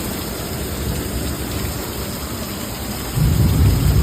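Heavy rain falling steadily. About three seconds in, a low rumble of thunder swells up.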